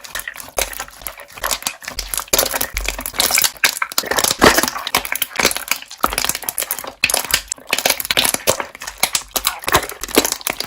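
Slime being squished and kneaded by hand, trapped air bubbles popping in a dense, irregular run of crackles and clicks.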